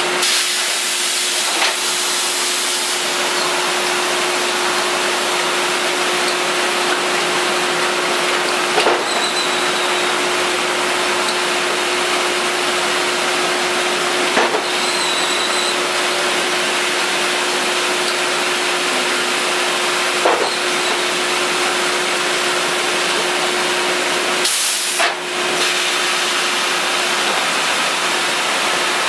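Steady, loud machine noise with a constant hum running under a hiss, broken by a few sharp knocks spread through it.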